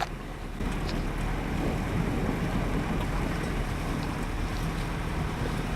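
A vehicle on the move: steady engine hum under wind and road noise.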